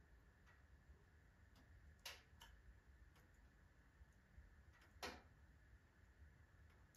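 Faint crackling of firewood burning in a wood stove: scattered small ticks and snaps, with two louder pops about two and five seconds in.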